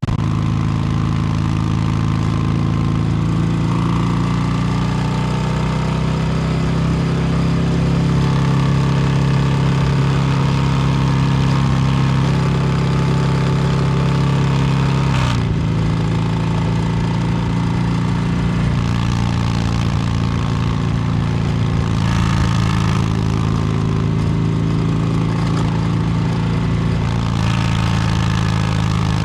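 Harley-Davidson Low Rider S's Milwaukee-Eight 117 V-twin running under way through an S&S Superstreet 2-into-1 exhaust, with a steady exhaust note and a brief throttle change about halfway through.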